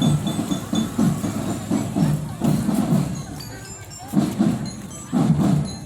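School marching drum band playing: drums beating in short repeated groups, with high bell-like notes of a bell lyra ringing above them.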